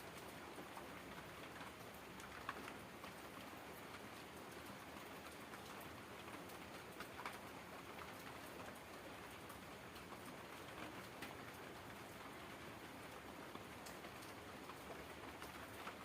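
Faint, steady rain falling, with scattered drops ticking out above it, the clearest about two and a half and seven seconds in.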